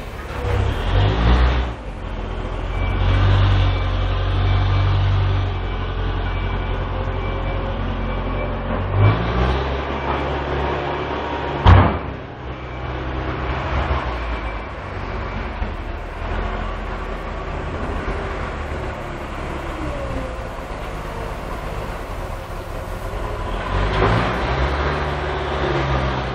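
Heavy diesel engines of Manitou telehandlers working under load, revving up three times, with one sharp knock about twelve seconds in.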